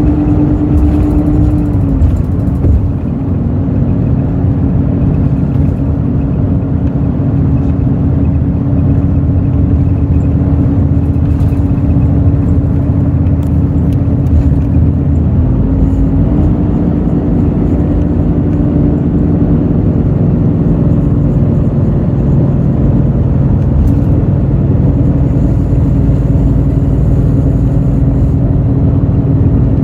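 Hino J08E-VD inline-six turbo-diesel of a Hino RN8JSVU bus running under way, heard from inside the bus as a steady drone. Its pitch sags slightly about two seconds in and dips briefly about halfway, then holds a little higher with more low rumble.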